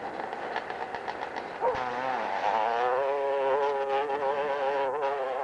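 Motorcycle engine buzzing under load on a steep hillclimb, its pitch wavering up and down as the throttle works. A click comes a little under two seconds in, and after it the engine is louder and closer.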